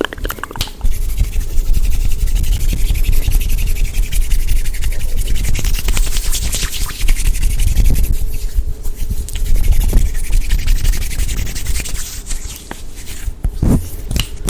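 Fast, rough rubbing and scratching of hands close up on the microphone, a dense run of rapid strokes with a heavy rumble of handling.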